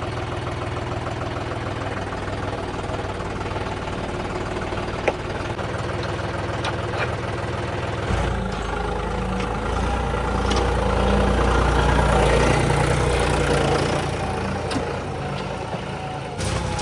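Diesel tractor engines running steadily, then revving louder and deeper about eight seconds in before easing off near the end.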